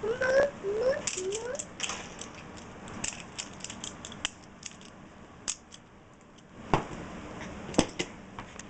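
Toy train cars and track pieces being handled, giving scattered light clicks and knocks with two louder knocks near the end. Near the start a small child makes a few short rising vocal sounds.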